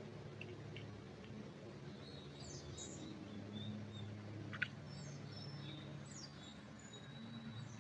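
Small songbirds chirping and trilling in a pine forest, short high calls coming every second or so, over a steady low hum. A single sharp click a little past halfway stands out as the loudest sound.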